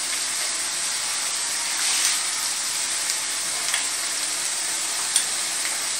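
Chopped beans, carrots and peas sizzling steadily in hot oil and ghee in a kadai, with a few faint ticks.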